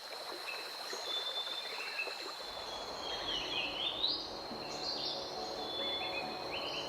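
Rainforest ambience: a steady high whine with scattered short bird chirps over a soft hiss.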